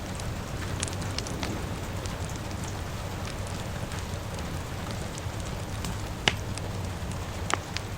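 Steady rain falling mixed with a crackling wood fire, with scattered sharp crackles and two louder pops near the end.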